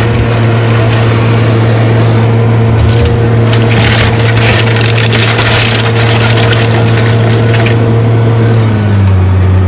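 Diesel engine of a heavy demolition machine running steadily under load, with crunching and splintering of debris being broken through the middle. Near the end the engine drops to a lower speed.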